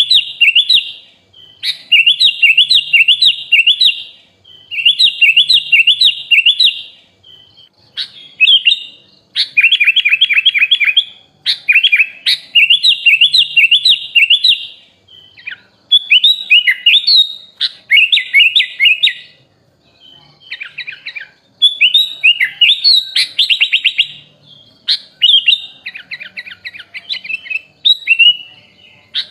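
Sooty-headed bulbul (kutilang) singing in a run of fast, chattering phrases a second or two long, each a quick string of repeated high notes, with short pauses between. The song is filled with phrases borrowed from other songbirds such as the magpie-robin and leafbird.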